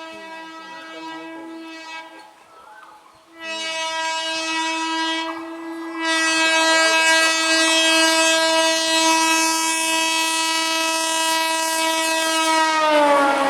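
Indian Railways locomotive horn: a blast of a few seconds, then a long steady blast from about three seconds in. The noise of a train running past builds from about six seconds in, and near the end the horn's pitch drops as the locomotive passes.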